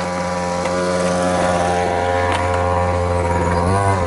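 Small 50cc pit bike engine running at a steady speed. Its pitch dips briefly near the end as the throttle eases off.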